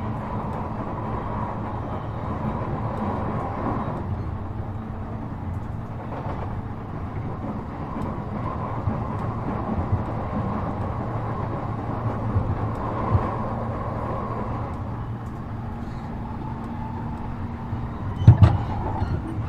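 E233-7000 series electric train running at steady speed, heard from on board: a constant rumble of wheels on rail with a steady hum from the drive. A couple of sharp knocks come near the end.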